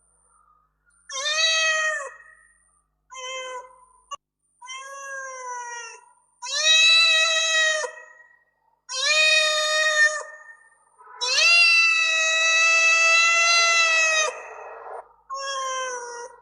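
Domestic cat meowing repeatedly: a series of separate meows about a second long, one drawn out for about four seconds near the end. A short sharp click comes about four seconds in.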